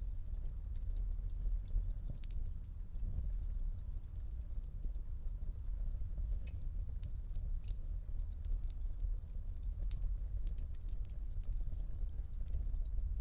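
Fire in a fireplace crackling: many small, irregular snaps and pops over a low, steady rumble of flames.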